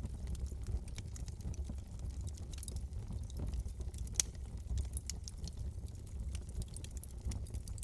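Wood fire burning in a fireplace: a steady low rumble of flames with scattered crackles and pops, one sharper pop about four seconds in.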